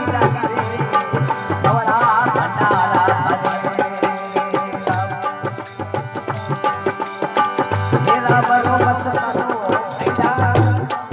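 Rajasthani folk devotional song music: a drum rhythm keeping a steady beat under a wavering melodic line, with no clear singing.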